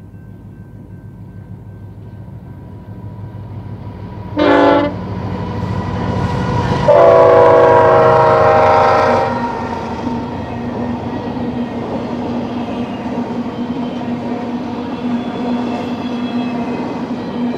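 BNSF GE ET44C4 diesel locomotive approaching and passing at the head of a freight train, its air horn sounding one short blast about four seconds in and then a long, loud blast of about two seconds a little later. After the locomotive goes by, the freight cars roll past with a steady rumble and clatter of wheels on rail and a held hum.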